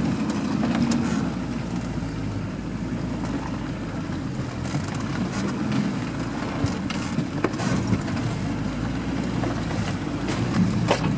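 Off-road vehicle engine running steadily, with a few sharp knocks partway through and near the end.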